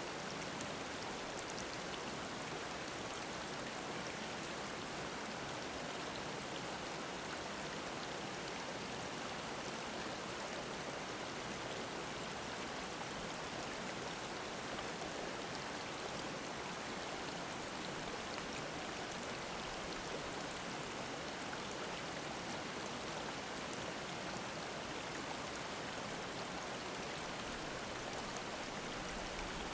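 Mountain stream flowing over rocks, a steady babbling rush of water.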